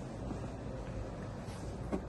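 Quiet, steady room tone with a faint low hum and no distinct sound events.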